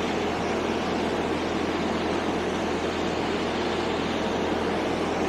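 Steady rumble and hiss of a Class 158 diesel multiple unit idling at the platform, with an even low hum and no change in level.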